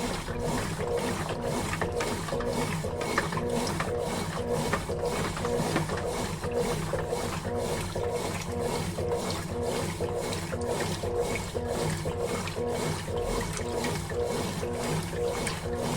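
Consul Facilite 11 kg (CWG11) top-loading washing machine agitating a load of laundry, its motor and agitator churning in a steady rhythm of about two strokes a second.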